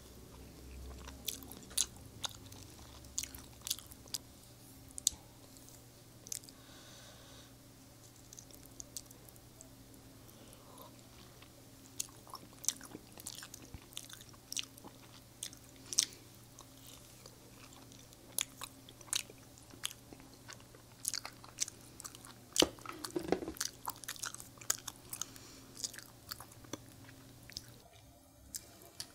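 A person chewing Indian sweets close to the microphone, with irregular sharp mouth clicks throughout and a fuller, lower mouth sound about two-thirds of the way in.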